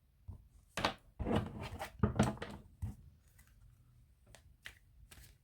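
Tarot cards being shuffled and handled: a quick run of crisp card snaps about a second in, then scattered single flicks.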